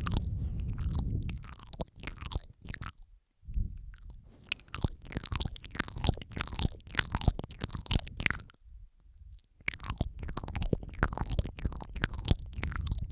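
Close-miked ASMR mouth sounds: wet clicks, smacks and sucking sounds from lips and tongue, several takes layered over one another. They come in dense runs, with a short break about three seconds in and a quieter stretch about eight seconds in.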